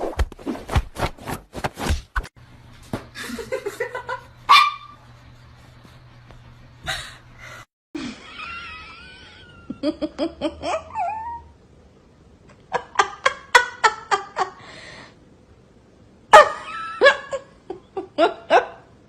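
People laughing in repeated bursts, with a dog vocalizing among them; the first two seconds hold a quick run of sharp clicks.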